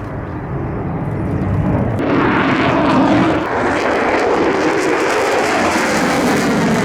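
Fighter jet engine roar during an air show flight, most likely an F-35's single turbofan. It grows louder over the first two seconds, is loudest about three seconds in, then stays loud.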